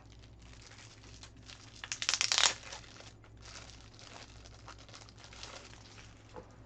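Plastic packaging crinkling and rustling as it is handled, with a short burst of loud crackling about two seconds in and softer rustles after.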